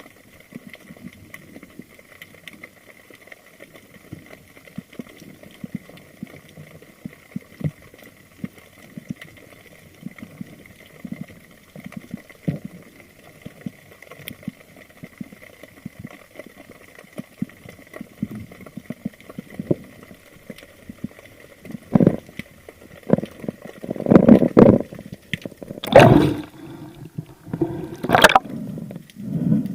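Underwater recording with a faint steady whine and light crackling, then loud gurgling surges of water from about two-thirds of the way in.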